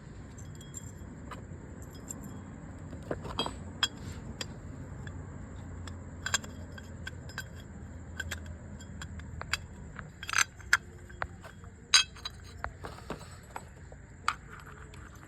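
Irregular metallic clinks and taps of hand tools and small metal parts being handled during motorcycle repair work, over a low steady hum; the sharpest clicks come about two-thirds of the way through.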